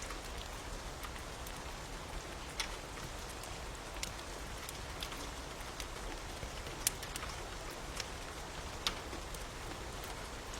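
Steady rain falling, with scattered sharp crackles and pops from a wood fire coming at irregular intervals.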